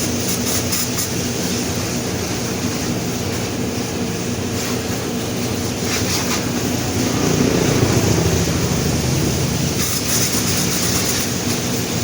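Car wash machinery running steadily with a rush of spray or air and a low motor hum, louder about seven seconds in, heard from inside the car.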